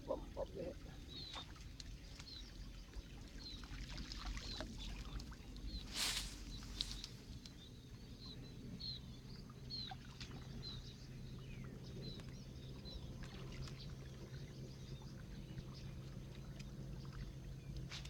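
Repeated short, high chirps from a bird over faint outdoor water noise, with a brief rush of noise like a splash or cast about six seconds in.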